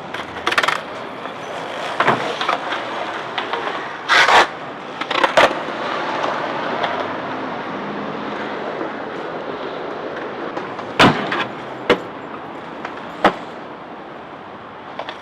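Skateboard wheels rolling and scraping on a hard surface, broken by several sharp clacks of the board hitting and landing.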